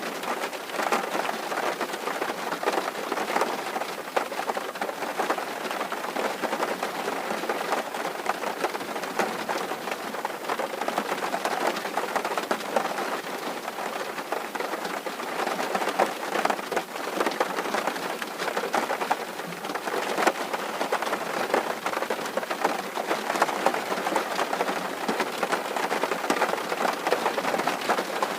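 Steady rain drumming on a tin roof, a dense patter of countless small drop impacts on the metal.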